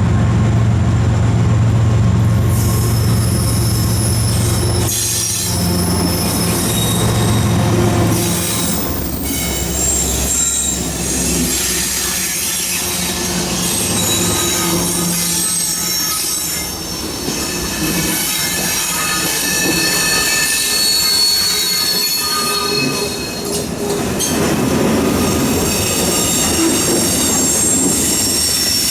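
Freight train rolling past with its steel wheels squealing against the rail in long, high, steady tones over the rumble of the cars. A deep rumble in the first eight seconds or so dies away, and the squeal carries on to the end.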